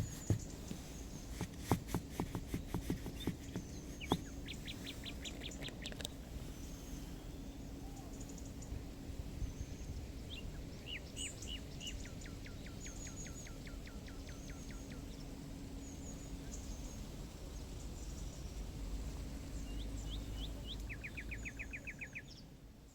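Small songbirds chirping and trilling in a forest, several short rapid trills and high chirps repeating at different pitches. Footsteps crunch on the path in the first few seconds, and the sound fades out near the end.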